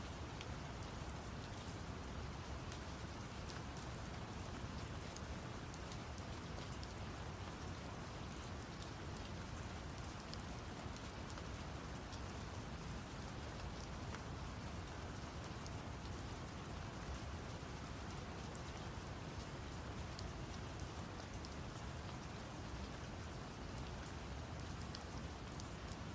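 Steady rain sound mixed with brown noise: an even hiss with a deep, constant rumble beneath it and scattered small drop ticks, unchanging throughout.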